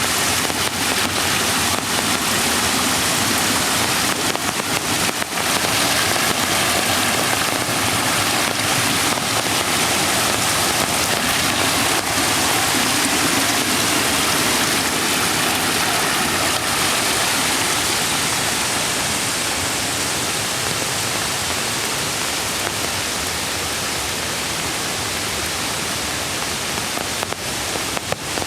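Mountain creek water rushing steadily, mixed with light rain falling on the forest; it eases a little in the second half.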